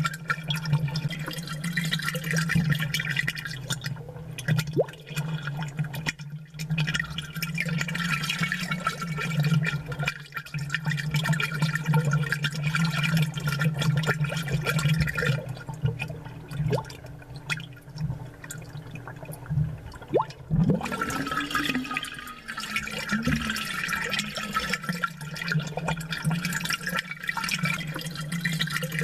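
Aquarium water bubbling and gurgling as air bubbles rise and pop from an aerated ornament. Many small pops run over a steady low hum.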